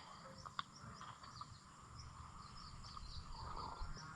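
Faint chirping of crickets in a quiet rural setting, many short high chirps over a low rumble, with a small click about half a second in.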